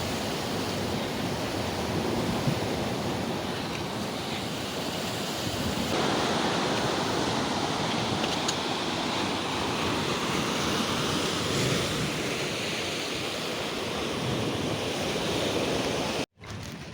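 Ocean surf washing steadily against a rocky shore, with wind buffeting the microphone; the sound drops away suddenly near the end.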